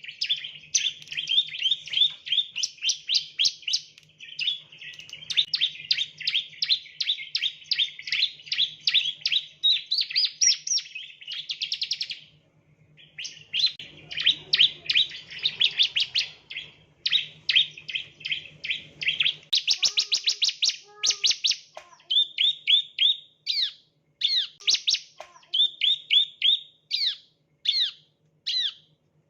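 Bar-winged prinia (ciblek) singing: long fast trills of high chirps, broken briefly about 12 seconds in. After about 22 seconds the song changes to separate downward-sliding notes at about two a second.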